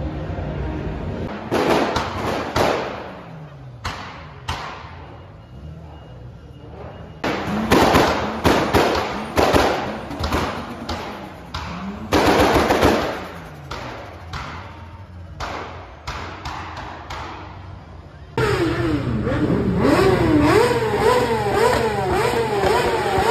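Tuned car engines revved hard in short bursts, with sharp exhaust bangs between the revs. From about three-quarters of the way through, a Kawasaki Ninja sport bike's engine is blipped up and down over and over.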